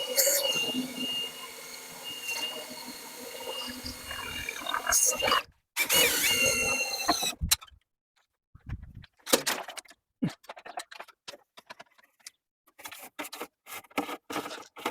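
Drill spinning a dryer vent cleaning rod and brush inside the duct: a steady whine for about five seconds, a short second run, then scattered clicks and rattles of the rods being handled.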